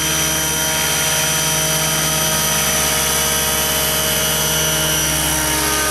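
Radio-controlled model helicopter's motor and rotors running steadily in flight, a sustained whine with a constant pitch.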